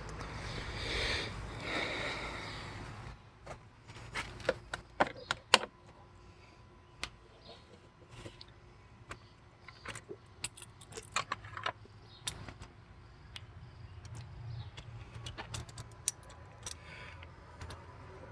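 Metal hand tools clinking and rattling as they are picked out and gathered up, a string of sharp, irregular clicks.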